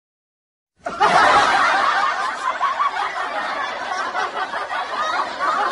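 Many people laughing at once, a dense continuous laughter that starts abruptly about a second in after a brief silence.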